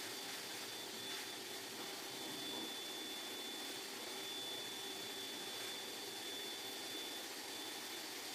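Steady whirring hiss with a thin, constant high whine and no breaks.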